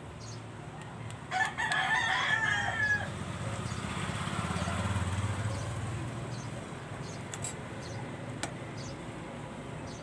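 A single loud bird call about a second in, lasting under two seconds with a wavering pitch, followed by a low hum that swells and fades over the next few seconds.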